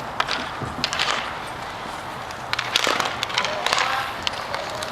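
Hockey play on the rink: skates running over the floor and several sharp clacks of sticks on the puck and boards.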